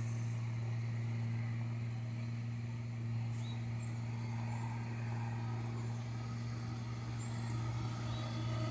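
Freight train of covered grain hopper cars rolling along the track, under a steady low hum that does not change, with a few faint high chirps.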